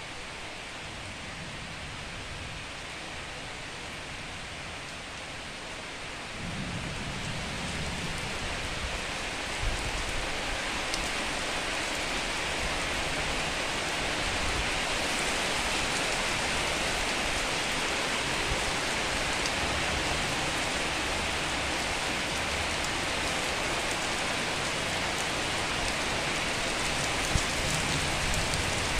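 Heavy rain pouring down steadily. It gets louder about six seconds in and heavier again toward the middle.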